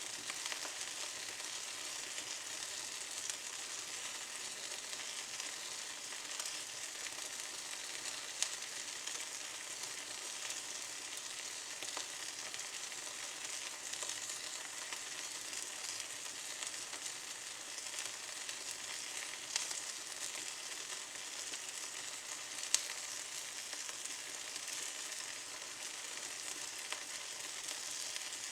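Small twigs burning in a fireplace: a steady hissing crackle, with three sharper pops.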